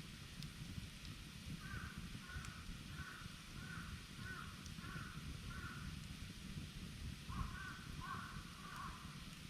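A bird calling in two runs of rapid, rough repeated calls, about two a second; the second run starts about seven seconds in. Under the calls sit a steady low rumble and a few faint crackles from the campfire.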